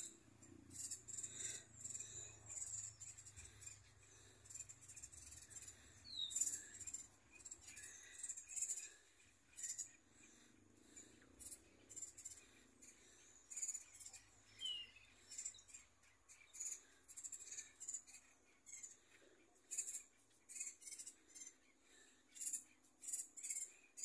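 Faint, irregular high chirping of small birds, many short calls in quick succession, with a thin down-slurred whistle twice.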